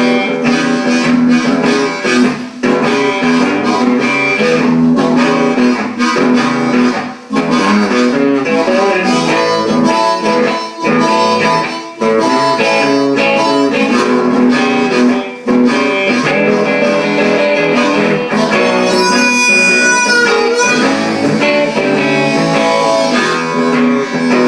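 Blues harmonica solo over electric guitar backing, in an instrumental break of a blues-rock song.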